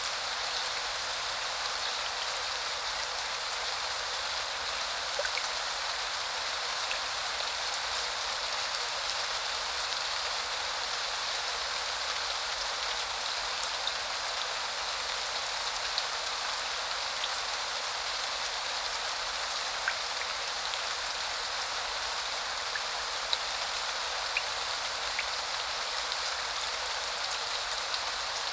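Steady spring rain falling: an even hiss with scattered sharper drip ticks here and there.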